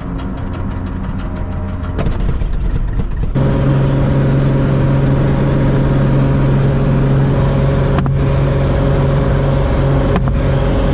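Floatplane's piston engine starting, then running. Uneven firing and rising noise over the first few seconds give way to a loud, steady propeller drone about three seconds in.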